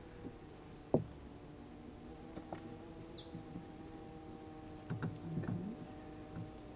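Honeybee colony humming steadily in an open top bar hive. There is one sharp knock about a second in and softer wooden knocks around five seconds in as the top bars are handled. A small bird chirps in short high trills between about two and five seconds in.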